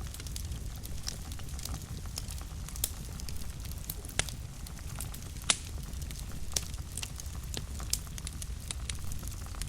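Wood fire burning in a fireplace, with a steady low rumble of flame and irregular sharp crackles and pops, the loudest pop about halfway through.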